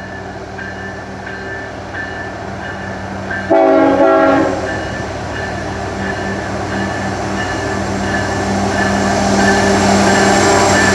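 GE ET44AC diesel locomotive approaching at the head of a freight train, its engine running steadily, sounding one short horn blast of about a second about three and a half seconds in as a salute. The engine and wheel noise grow louder toward the end as the train draws near.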